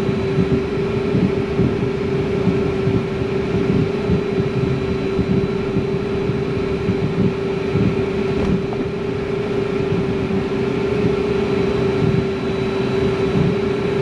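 Cockpit noise of a Cessna Citation M2 taxiing: the twin turbofan engines at idle give a steady hum with one constant tone, over a continuous, unevenly fluttering low rumble.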